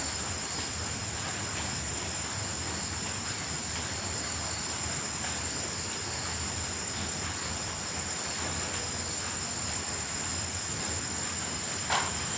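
Crickets and grasshoppers chirring in a steady, high-pitched, unbroken drone. Near the end there is one brief sharp click.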